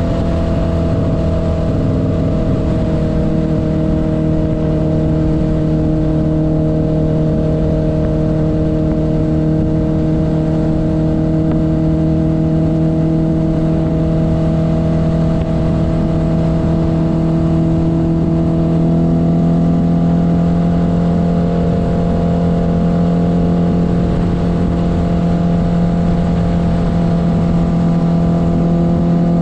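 1972 Honda CB500's inline-four engine running steadily under way, its pitch holding nearly level and creeping slightly upward in the second half.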